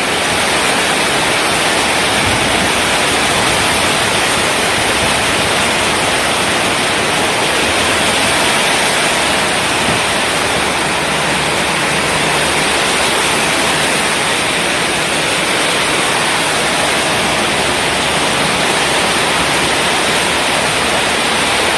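Very heavy rain pouring down in a steady, even rush with no breaks.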